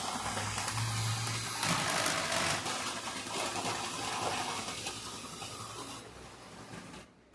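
Tyco model diesel locomotive running on the track, its motor and freshly replaced drive-truck gears whirring with the wheels rattling over the rails; the running sounds smoother now that the worn-out rear power truck has been rebuilt. The sound fades over the last couple of seconds and drops away near the end.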